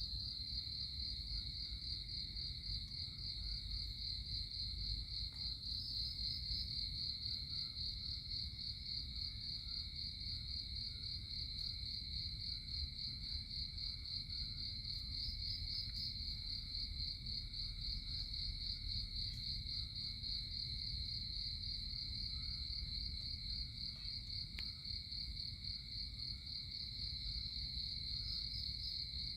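Crickets chirring steadily in one continuous high, fast-pulsing trill, with a fainter lower steady tone beneath it and a low background rumble.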